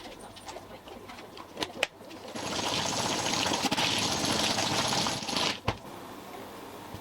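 A powered wire brush scrubbing a rusty bolt clean: a steady harsh hiss with a thin high whine that starts about two seconds in, runs for about three and a half seconds and stops abruptly with a knock. Light clinks of metal parts being handled come before it.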